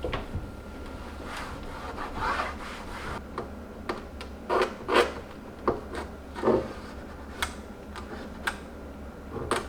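Irregular rubbing and scraping strokes, with a few sharp clicks and light knocks, as of scrubbing and handling things at a kitchen counter.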